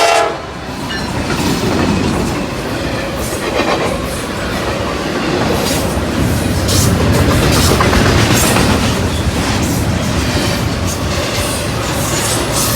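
A train rolling past close by, a steady rumble of steel wheels on the rails with a rapid, irregular clacking over the rail joints.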